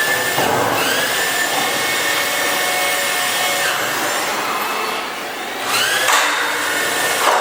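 2-ton electric hoist motors whining in start-and-stop runs as the beam is lifted. Each run begins with a quick rising whine and then holds steady; one run stops just after the start, another runs from about half a second in to nearly four seconds, and a third starts near the end.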